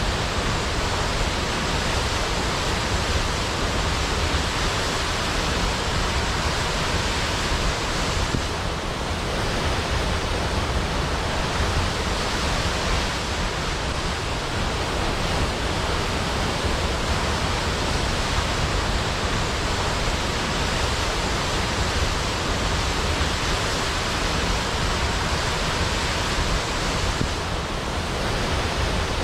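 Large waterfall pouring into a pool: a steady, even rush of falling water.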